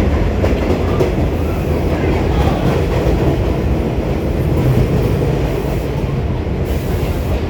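New York City subway train running on the track, a loud, steady rumble of wheels on rails.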